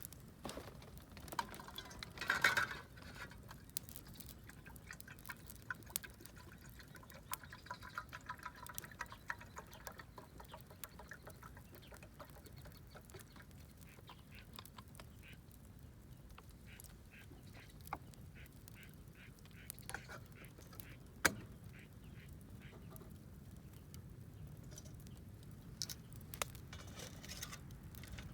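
Wood campfire crackling, with scattered sharp pops, one louder pop about twenty seconds in. In the first ten seconds there is a run of short squeaky, pitched sounds.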